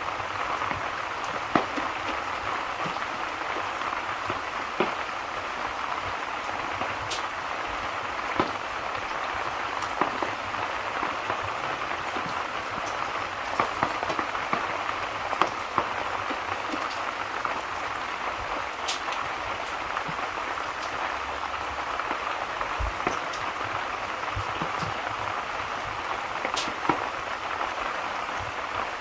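Steady rain falling, an even hiss, with scattered short sharp pops every second or two.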